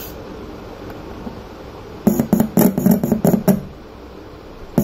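Test audio, music-like, played through the home theatre's speaker in loud, choppy spurts for about a second and a half starting two seconds in, then again briefly at the very end.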